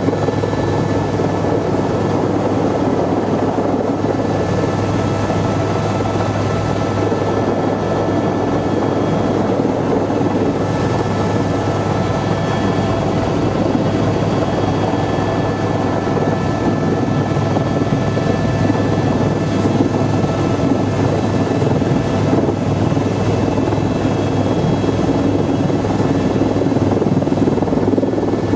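Helicopter in flight: a steady, loud drone of rotor and engine noise with a low hum underneath and faint steady high whines.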